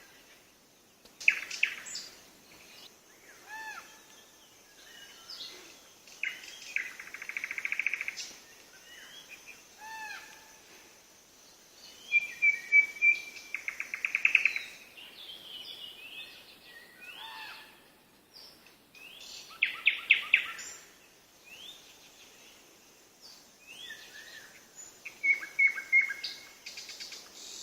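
Songbirds singing: varied phrases of short whistled and chirped notes and rapid trills, coming in bursts with short pauses between them, over a faint steady high hiss.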